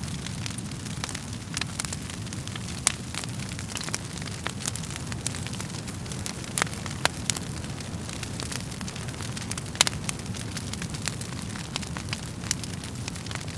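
Wood fire crackling in a fireplace: a steady low rumble of flames with irregular sharp pops and snaps, a few louder pops standing out.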